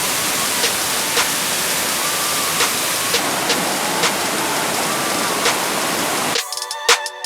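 Steady, loud rush of South River Falls, a large waterfall, heard from its base. About six seconds in, it cuts off abruptly to background music with a beat.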